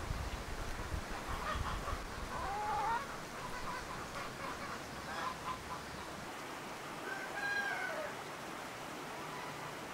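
Birds calling in two bouts, about a second in and again near the end, with rough pitched calls that bend in pitch, over steady outdoor hiss. A low rumble fades out about two seconds in.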